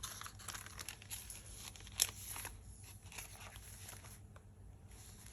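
Paper pages of a handmade junk journal being handled and turned, rustling faintly, with a sharper tap about two seconds in.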